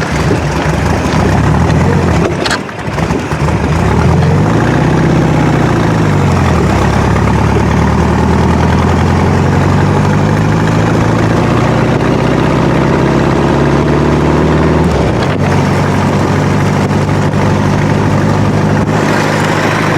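VW dune buggy's engine driving along, its pitch dropping at a gear change about two and a half seconds in, swelling and falling back, then climbing steadily before dropping again at another shift about fifteen seconds in. Wind rushes over the microphone throughout.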